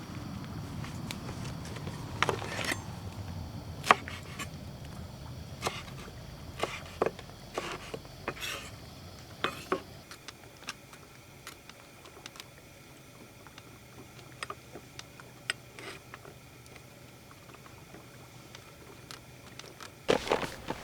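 Irregular light knocks and clinks, about a dozen, over a low rumble that cuts off about halfway through.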